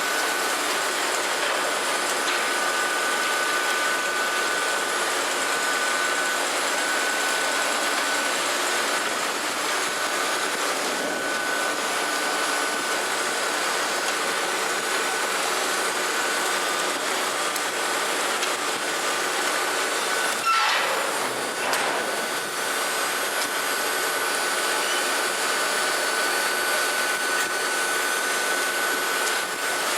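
Peanut mill machinery running with a steady whine over a dense, even noise. A brief knock breaks in about two-thirds of the way through.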